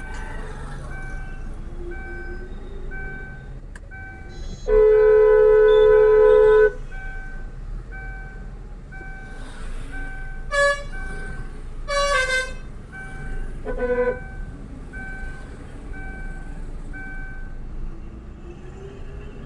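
A vehicle horn sounding one long steady blast of about two seconds, followed by several shorter honks at other pitches. Under it there is a steady traffic rumble and a faint beep repeating a little more than once a second.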